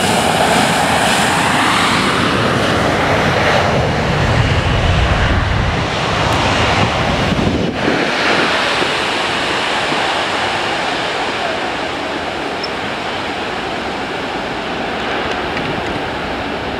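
Jet airliner's engines rumbling and slowly fading away, with wind buffeting the microphone.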